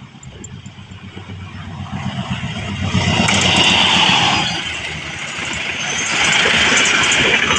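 Train approaching at speed and passing close by, growing louder over the first three seconds, easing briefly, then loud again with the rhythmic clatter of wheels on the rails.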